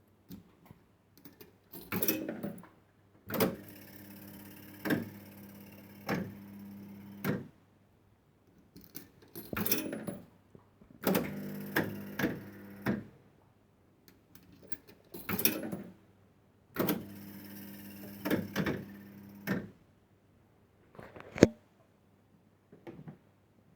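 1970s penny-play fruit machine being played through several games: sharp clicks and clunks from its mechanism, and three times a steady hum of the reels spinning for a few seconds before they stop with a clunk.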